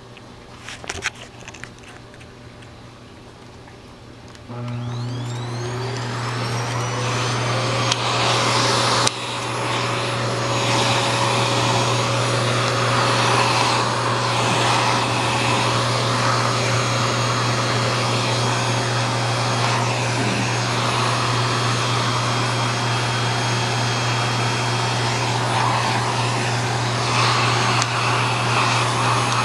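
A vacuum cleaner switches on about four and a half seconds in, its motor whine rising as it spins up, then runs steadily. A few light clicks come about a second in, before it starts.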